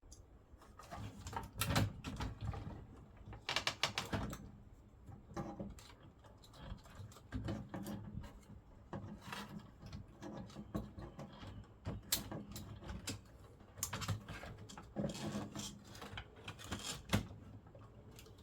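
Irregular clicks, knocks and scraping from hands working on a portable radio cassette recorder, with a faint low hum now and then.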